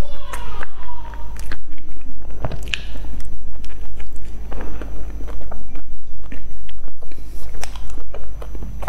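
Close-miked eating sounds of someone biting into and chewing a soft bread roll with a gooey cheese filling: repeated small mouth clicks and smacks.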